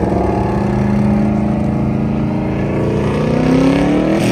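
Car engine revving hard, held at high revs, its pitch climbing over the last second or so and dropping right at the end.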